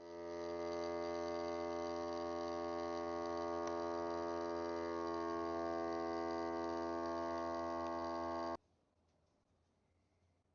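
A sustained, unchanging chord of many steady tones, like an edited-in music bed, swelling in over the first moment and cutting off abruptly about eight and a half seconds in, followed by near silence.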